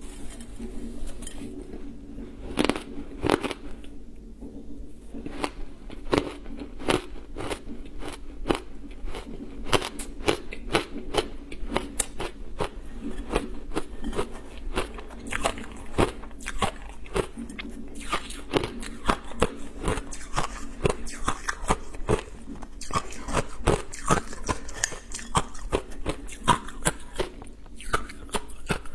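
Ice being bitten and crunched close up, with rapid sharp cracks several times a second.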